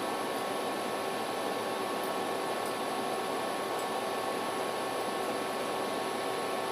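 Steady, even hiss with a few faint steady tones in it: constant background noise with no speech and no distinct events.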